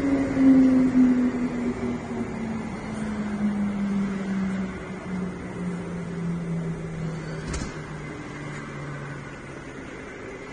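Woodworking CNC router machine's motor winding down: a hum that falls steadily in pitch and fades away. A single click about seven and a half seconds in.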